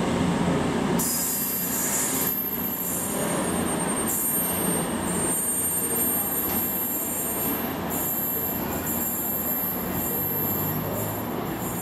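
CrossCountry Voyager diesel multiple unit pulling away round a curve, its underfloor diesel engines running with a low hum. Its wheels squeal high-pitched on the curved track, coming and going from about a second in.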